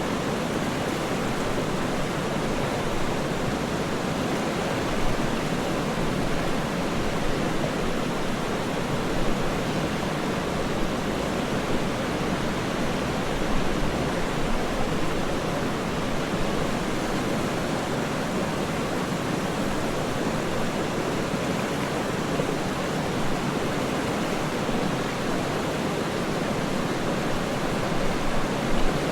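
Waterfall: falling water rushing steadily as an even, unbroken noise, with a few small surges in level.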